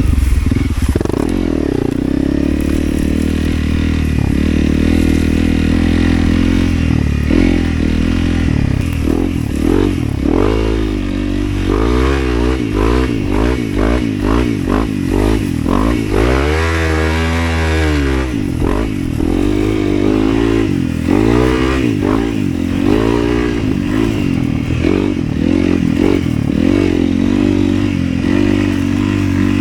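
Motorcycle engine running while riding, its revs rising and falling again and again with the throttle, with one bigger rev sweep up and back down about halfway through.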